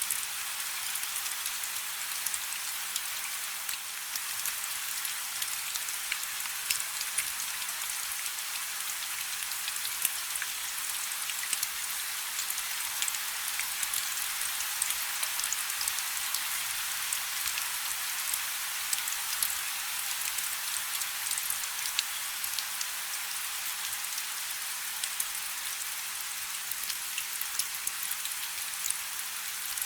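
Light rain falling steadily, an even hiss with many small, sharp drop ticks scattered through it.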